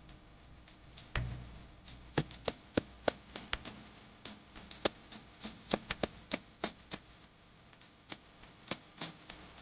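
Irregular light taps and clicks, about two a second in an uneven pattern, over a faint low background.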